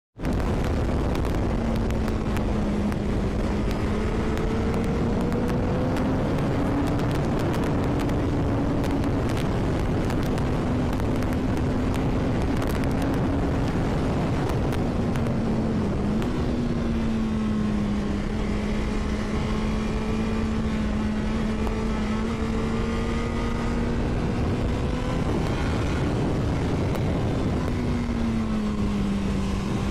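Honda CBR1000RR's inline-four engine running at fairly steady revs under a loud, even rushing noise, its pitch drifting slowly with two brief dips, about halfway and near the end.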